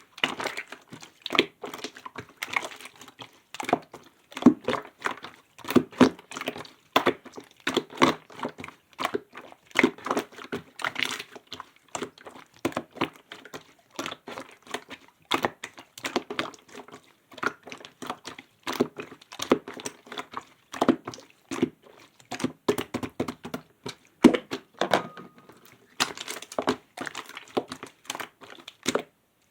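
Clear slime being squished and poked by hand, giving a steady stream of irregular sticky pops and clicks, several a second.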